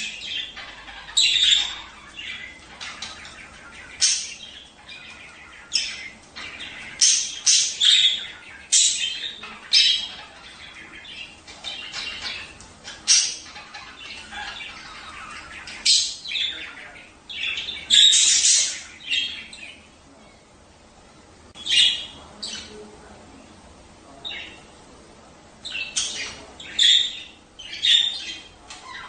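Budgerigars chattering and chirping, a flock's quick high calls and squawks coming in irregular bursts, with a quieter stretch past the middle.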